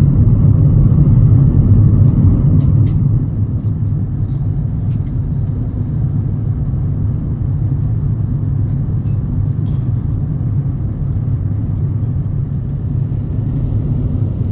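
Steady low rumble of an Airbus A350-900 cabin in flight, engine and airflow noise, easing slightly in level about three and a half seconds in.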